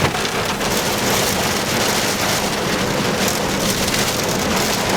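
Heavy storm rain beating steadily on a vehicle, a dense, even hiss with no let-up.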